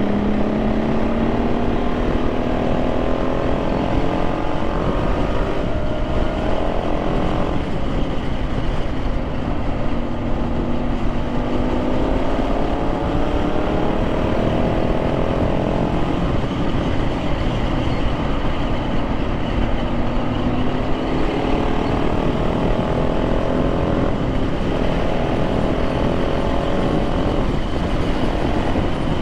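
KTM 690 SMC R's single-cylinder engine accelerating through the gears: its pitch climbs for several seconds, then drops back at each upshift, four or five times over, with wind rush on the microphone throughout.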